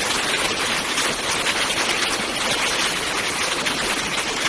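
Fast-flowing floodwater rushing in a steady hiss.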